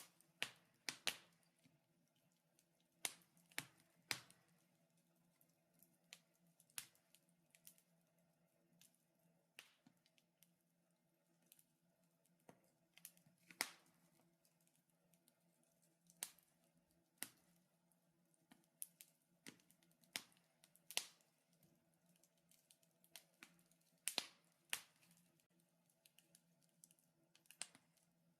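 Wood fire crackling in a fireplace: irregular sharp pops and snaps, scattered singly and in quick pairs, over a faint steady hum.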